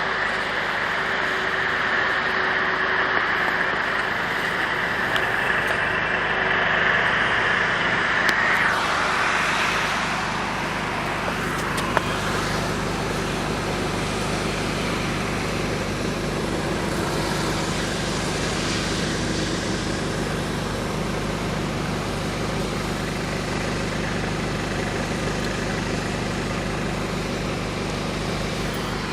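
Steady motor-vehicle noise: a car engine running with a low, even hum under a continuous hiss, with one sharp click about twelve seconds in.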